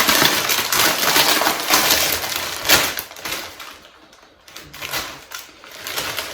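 A potato chip packet crinkling loudly as it is pulled open, dense crackling for about three seconds, then quieter scattered rustles of the packet.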